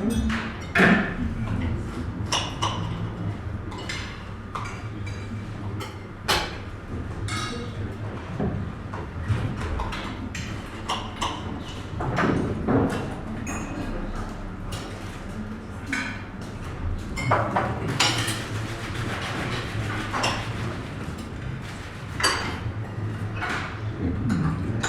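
Breakfast-room ambience: cutlery and plates clinking and clattering at irregular moments over a low murmur of conversation and a steady low hum.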